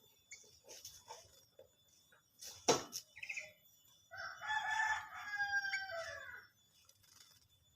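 A rooster crows once: one long call of about two and a half seconds that falls in pitch at the end. A sharp knock comes shortly before it, with faint scattered clicks around.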